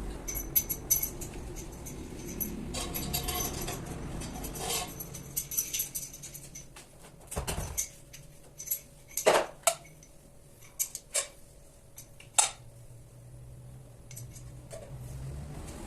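Metal parts and tools clinking and tapping in irregular bursts, with a few sharp knocks in the middle and one duller thud.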